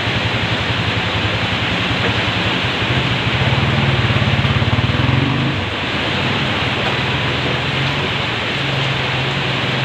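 Heavy rain drumming steadily, with a vehicle engine humming low underneath; the engine grows louder a few seconds in, then settles back.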